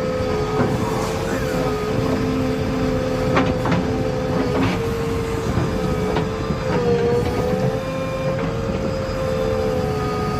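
Diesel engine of a heavy machine running steadily under load, with a steady whine and a few scattered clicks and knocks.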